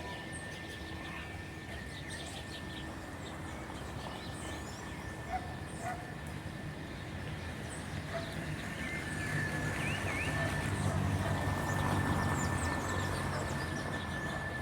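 Cicadas singing a steady, even high tone, with birds chirping now and then over it. A low rumble builds in the second half and eases toward the end.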